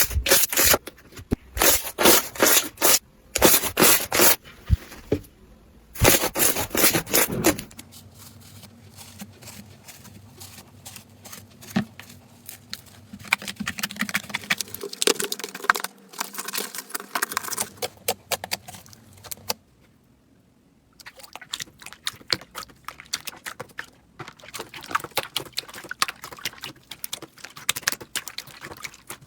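Slime being squeezed and worked by hand, giving dense runs of crackling, popping clicks. The clicks are loudest in the first several seconds and fainter after that, with a brief lull about two-thirds through before the crackling picks up again.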